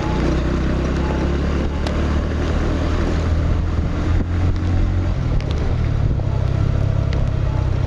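Motorcycle engine running steadily with a low drone under a constant rushing noise.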